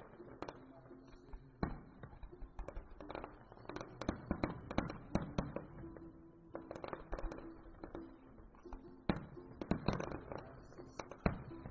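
Fireworks bursting at a distance: irregular bangs and crackles, some in quick clusters, with faint music under them.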